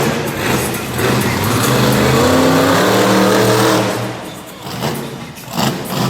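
A large vehicle engine revs hard, its pitch climbing and holding loud for a few seconds before dropping away. A few sharp knocks follow near the end.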